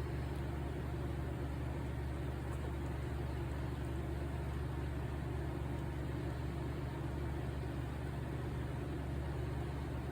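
Steady machine drone, an even low hum with a rushing hiss over it, like a blower or fan running.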